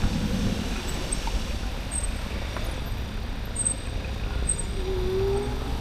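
Steady wind rumble on the microphone with road noise from a moving e-bike.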